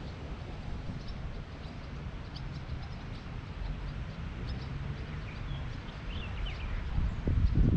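Faint outdoor birds chirping, with short scattered chirps and a few gliding calls in the second half, over a steady low rumble. A couple of louder low thumps come near the end.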